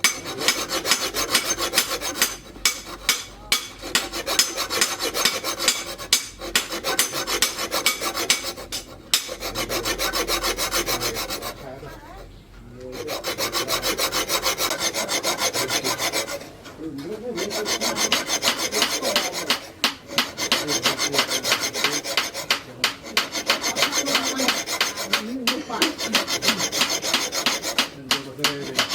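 Steel file rasping over the steel blade of a hand-forged sickle in rapid back-and-forth strokes, with a couple of short pauses.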